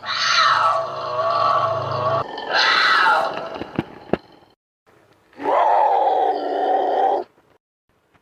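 Composite big-cat creature sound effect made from cheetah, leopard and cougar calls: three loud calls, the first about two seconds long starting high and falling, a shorter one about half a second later, and a steadier two-second call near the end. Two sharp clicks fall between the second and third calls.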